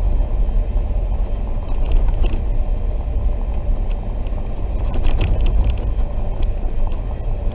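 Steady low rumble of a Jeep driving on a snow-covered road, heard from inside the cabin: tyre and engine noise, with a few faint creaks or ticks about two seconds in and again around five seconds.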